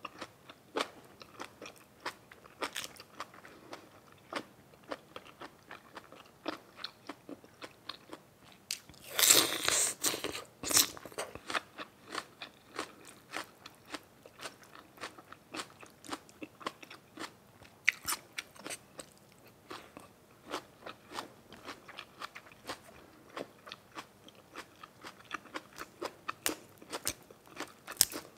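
Close-up chewing and crunching of crunchy food, a steady run of sharp bites and crunches, with a denser, louder burst of crunching about nine seconds in.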